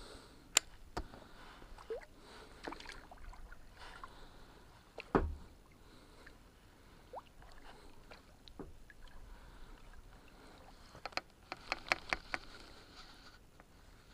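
Scattered small clicks and knocks of handling in a kayak, with one louder thump about five seconds in and a quick run of clicks near the end.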